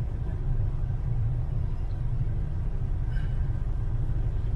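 Steady low rumble of a car's tires and engine while driving on a snowy road, heard from inside the car.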